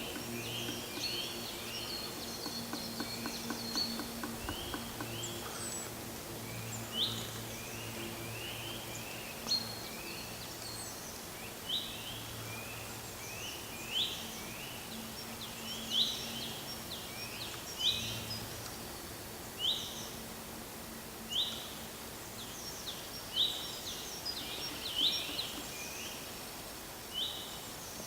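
Small birds chirping, with short high calls repeated about every second or two over a steady outdoor background. A low steady hum runs underneath for the first two-thirds and then stops.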